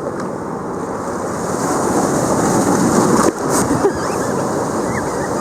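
Ocean surf washing and breaking, with wind buffeting the microphone. The noise swells louder about two seconds in and drops suddenly a little after three seconds.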